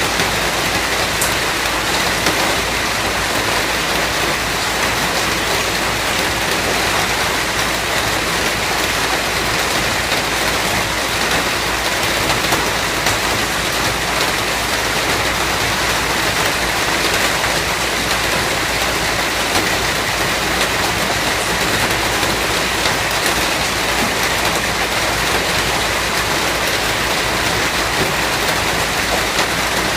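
Steady, continuous rain falling, an even dense hiss of rain on surfaces.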